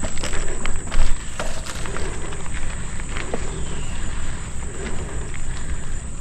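Mountain bike rolling over a dirt trail: a steady rumble with scattered knocks and rattles, and wind on the microphone. A steady high insect drone runs underneath.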